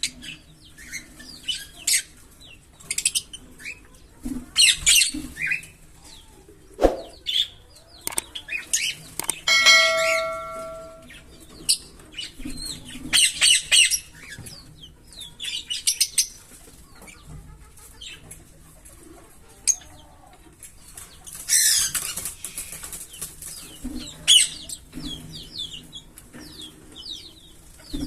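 A pair of green Fischer's lovebirds chirping, short high chirps in quick runs, busiest about thirteen and twenty-two seconds in. About ten seconds in, a steady bell-like ringing tone sounds for over a second.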